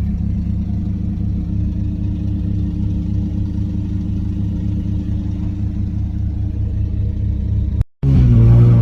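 Mazda RX-7 FD's twin-turbo 13B rotary engine running steadily while driving, heard from inside the cabin. Near the end the sound cuts out for a moment and returns louder, with the revs falling.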